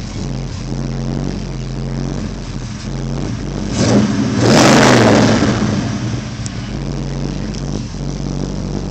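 1971 Chevelle SS V8 engine running steadily at low revs, heard from inside the cabin. A brief loud rush of noise comes about four seconds in.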